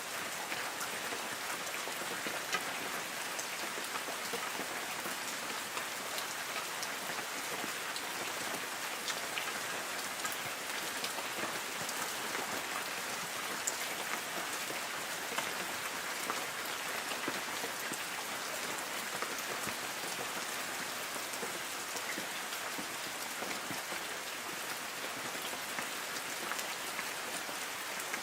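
Light rain falling on trees, a steady even patter with many individual drops ticking on the leaves.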